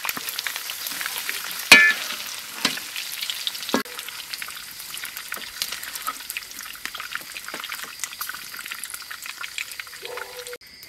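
Fried pork pieces sizzling and crackling in hot oil in a wok, with a few sharp clanks of a metal skimmer against the wok in the first four seconds as the cooked pork is lifted out. The sizzle carries on a little quieter after that.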